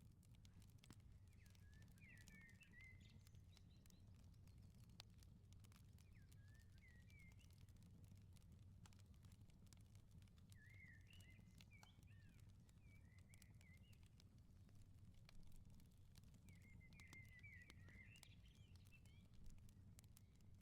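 Very faint outdoor ambience: small birds chirping in four short warbling phrases, over a low steady rumble and scattered faint crackles of a firepit.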